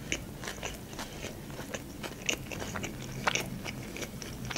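Close-miked eating of a KFC chicken burger on a sesame bun: wet chewing with small crunches and mouth clicks, then a fresh bite into the burger near the end.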